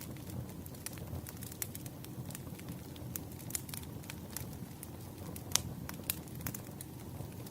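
Burning firewood crackling: irregular sharp pops and snaps over a low steady rumble of the fire, with one louder pop about five and a half seconds in.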